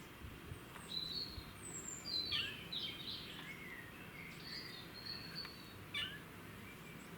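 Small bird singing in short phrases of chirps and whistles over a faint, steady low background rumble.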